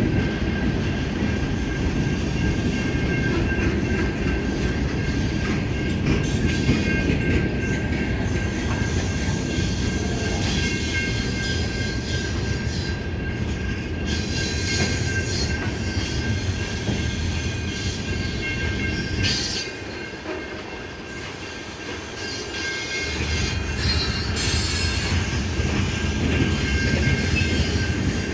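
Freight train of covered grain hopper cars rolling past: a steady rumble and clatter of steel wheels on rail, with a thin steady squeal from the wheels. The rumble drops briefly about two-thirds through, then comes back.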